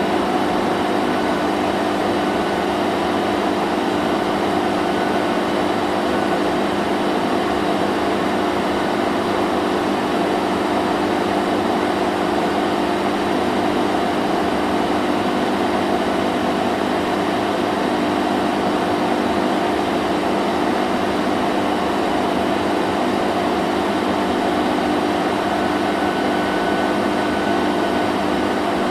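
Vacuum cleaner running continuously: a steady, unchanging motor hum with an airy rush.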